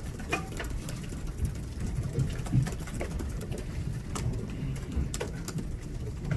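Press room ambience during a pause between questions: a low rumble and murmur with scattered sharp clicks.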